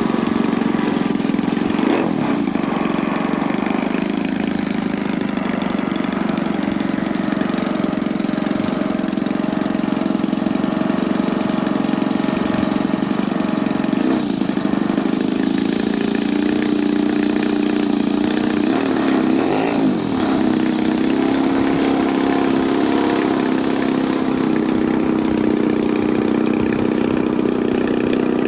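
Small model-aircraft engine running steadily with an even drone, with brief pitch sweeps up and down about two seconds in and again around twenty seconds.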